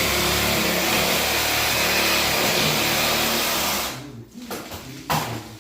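A power tool's electric motor running steadily, then switched off about four seconds in; a single sharp knock follows about a second later.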